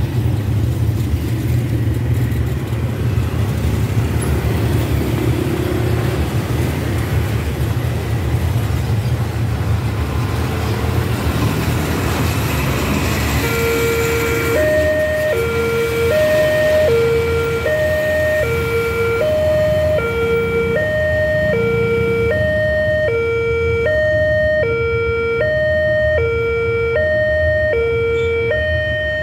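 Road traffic running past with a heavy engine rumble. About halfway through, a level-crossing warning alarm starts: two electronic tones alternating, high-low, about once every second and a half, signalling that a train is approaching.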